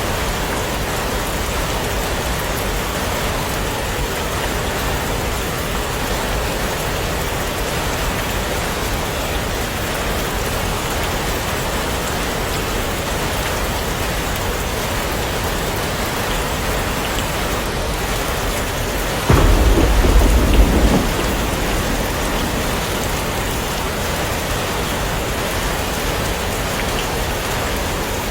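Heavy rain falling steadily, with a sudden clap of thunder about two-thirds of the way in that dies away within about two seconds.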